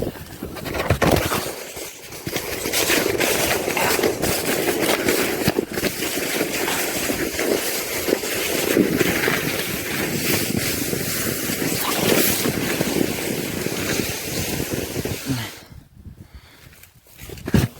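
Steady loud rushing noise like wind buffeting the microphone, which drops away abruptly near the end.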